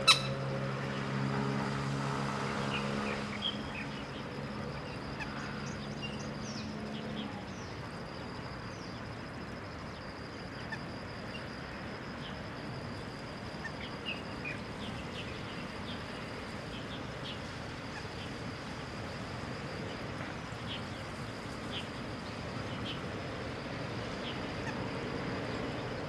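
Scattered short, high bird chirps over a steady outdoor hiss with a constant thin high tone. A sharp click at the very start, and a low steady drone that fades out within the first few seconds.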